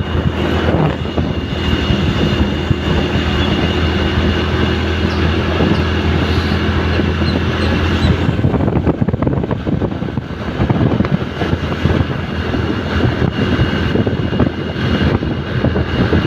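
Motor vehicle engine running steadily on the move, with road noise. The engine's hum is clearest for the first half, and rougher, noisier running follows from about halfway through.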